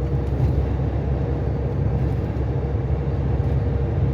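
Truck cab interior while driving: a steady drone of the diesel engine and road noise, with a faint steady whine on top.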